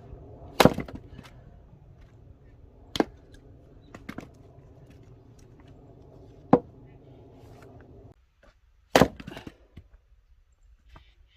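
Firewood being split with an axe: five sharp chopping strikes a second or two apart. A steady low engine hum runs beneath them and stops abruptly about eight seconds in.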